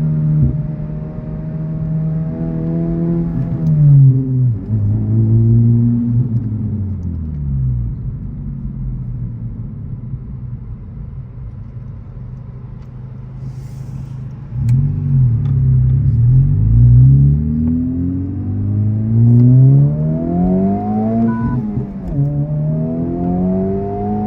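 Modified Honda Civic Type R FL5's turbocharged 2.0-litre four-cylinder engine and exhaust under way. It is running steadily at first, then the revs fall away about 4 s in and it goes quiet, off the throttle. About halfway it accelerates hard, its pitch climbing and dropping back several times as it shifts up through the gears.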